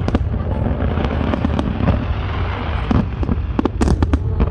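Fireworks display: aerial shells bursting in a run of sharp bangs over a steady low rumble, the bangs coming thickest near the end.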